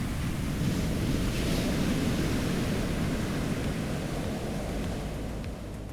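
Steady rush of surf breaking on the beach at Paria Bay, with some wind on the microphone, easing slightly near the end.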